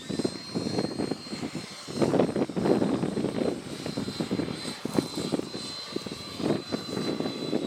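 Electric ducted fan of an FMS 64mm Rafale RC jet, giving a steady high whine that sets in abruptly and dips slightly in pitch near the end. Gusty wind buffets the microphone underneath it.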